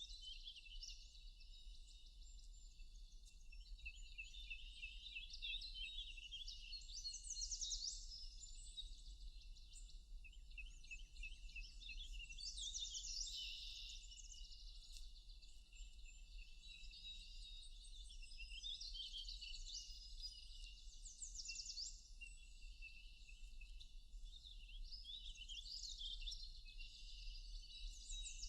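Several songbirds singing together in a dense forest chorus: rapid high chirps and trills overlapping throughout, with a faint steady low hum underneath.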